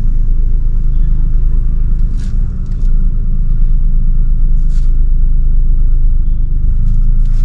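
Mahindra XUV300's engine running as the SUV reverses slowly, a steady low rumble, with a couple of faint ticks.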